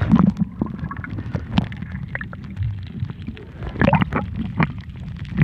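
Muffled underwater noise picked up by a camera held beneath the sea surface: a low rumble with scattered clicks and knocks, and louder bursts near the start and around four seconds in.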